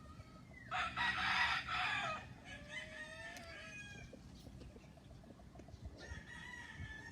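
A rooster crowing: a loud, harsh crow about a second in that trails off into a more tuneful tail, followed by fainter chicken calls and the start of another crow near the end.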